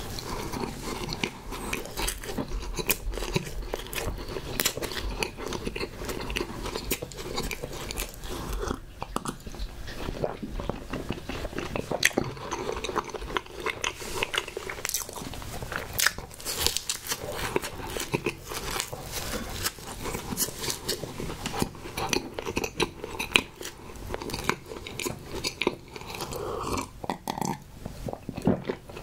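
Close-miked chewing of a soft marshmallow-and-coconut snack cake (Hostess Sno Ball), full of small wet mouth clicks. Near the end come gulps of strawberry milk.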